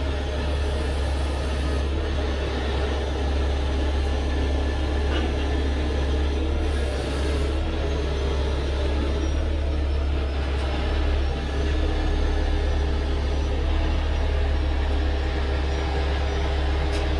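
Heavy truck's diesel engine running steadily with a constant low rumble.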